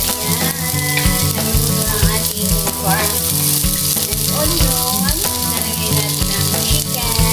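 Chopped onion and garlic sizzling steadily in hot oil in a frying pan, with music playing along.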